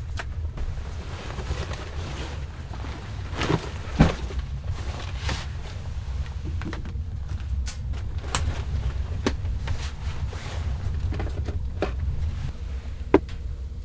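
Strong snowstorm wind buffeting the microphone as a steady low rumble, with scattered knocks and clicks from handling or movement. The loudest knock comes about four seconds in and another near the end.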